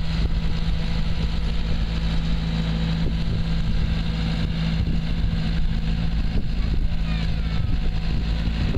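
An engine running steadily at a constant speed, with a deep, unchanging hum.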